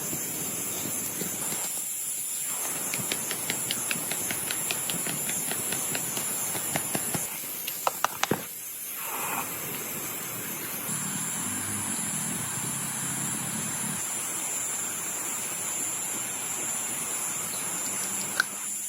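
Steady heavy rain, a constant hiss, with a run of light ticks a few seconds in and a few sharper knocks near the middle.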